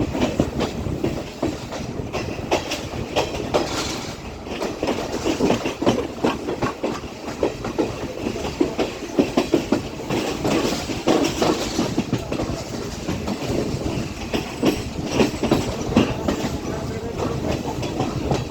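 Class S12 train running on the track, its wheels clattering over the rails with a steady rumble and many irregular clicks and knocks.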